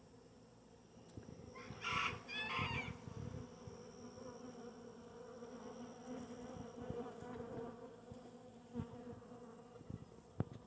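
Honeybee swarm buzzing steadily around the entrance of its new hive as the bees investigate and go in and out, with a chicken calling briefly about two seconds in.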